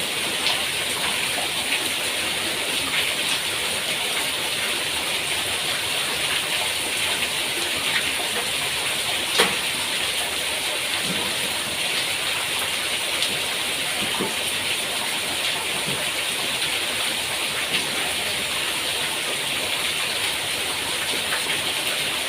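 Steady rain falling, with scattered louder drips.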